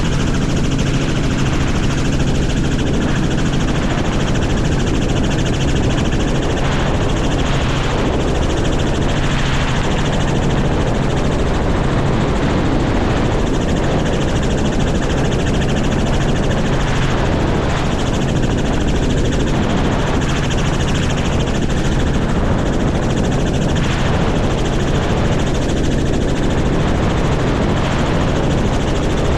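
Helicopter engine and rotor running with a steady drone, holding an even level throughout.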